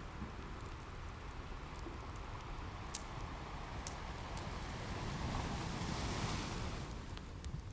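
Ocean surf with a steady low rumble; one wave swells and washes in about two-thirds through, then recedes. Sparse sharp crackles and pops of a wood fire sound over it.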